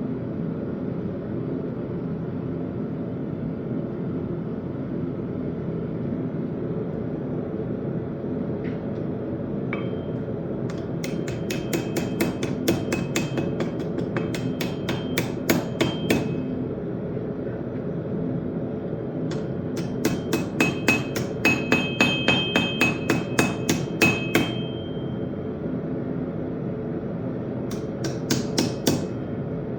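Blacksmith's hammer striking steel on an anvil in three runs of blows, about three a second, with the anvil ringing after the strikes. A steady roar runs underneath throughout.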